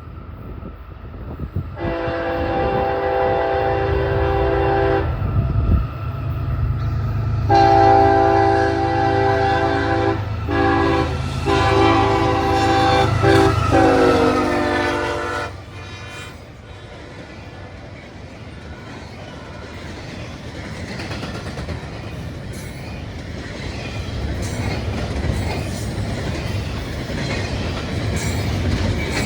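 Freight locomotive's air horn sounding a chord: one long blast of about three seconds, then after a short pause a longer blast broken by brief gaps. Then the train rolling past, a steady rumble of wheels on rail with clickety-clack that slowly grows louder.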